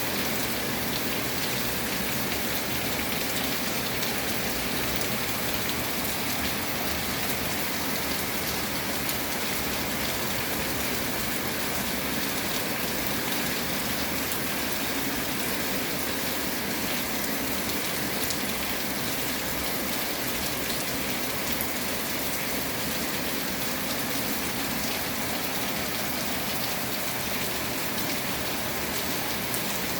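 Steady rain falling and pattering on surfaces, with no change in strength.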